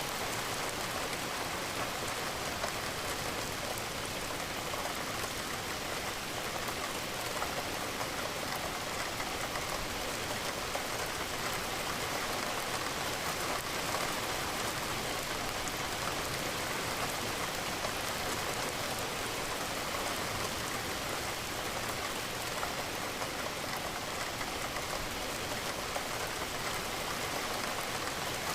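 Steady rain with a dense patter of raindrops against a window, even and unbroken.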